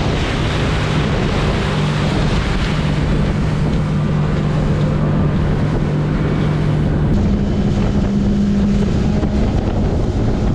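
Motorboat engine running at speed, its steady tone stepping up in pitch about seven seconds in, under heavy wind noise on the microphone and rushing water.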